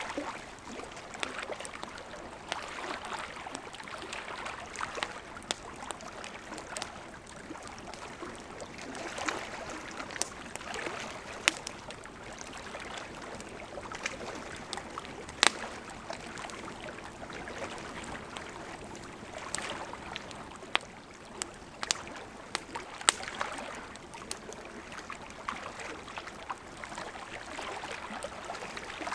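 Wood campfire crackling: a steady rushing hiss of burning wood with irregular sharp pops and snaps, a few of them louder, about halfway through and again later on.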